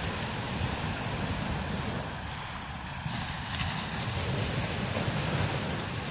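Strong desert wind blowing over sand dunes: a low rumble of wind buffeting the microphone under a steady hiss, swelling and easing with the gusts.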